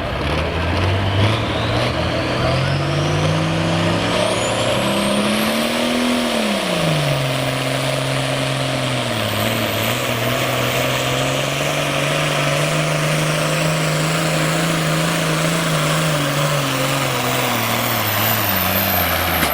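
A hot farm pulling tractor's engine running hard under load down the track. Its pitch climbs over the first six seconds, drops, then holds steady with a high whine above it until it cuts off near the end.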